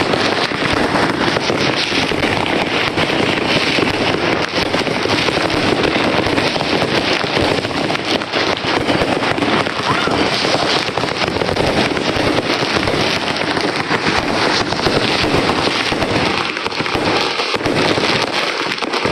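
A dense, continuous barrage of neighbourhood fireworks and firecrackers: many overlapping bangs, pops and crackles at once, with no pause.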